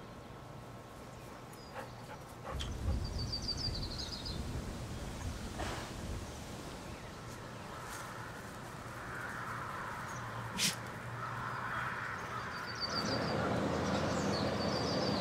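Birds chirping in short high trills, once a few seconds in and again near the end, over a steady low hum.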